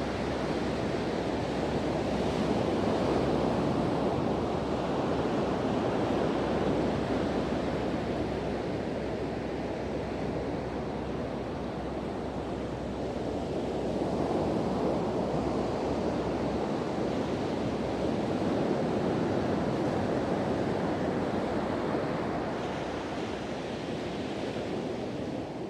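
Ocean surf washing onto a beach, a steady wash that swells and eases as the waves come in, with wind blowing on the microphone.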